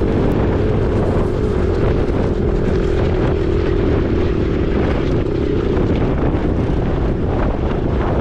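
Husqvarna 501 dirt bike's single-cylinder four-stroke engine running at steady revs while riding, its pitch easing slightly near the middle. Heavy wind buffets the microphone throughout.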